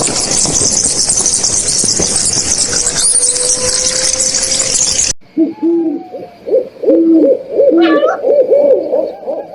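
A dense, high-pitched chorus of calls, cut off abruptly about five seconds in. It is followed by a series of short hooting calls from an animal, repeated about twice a second.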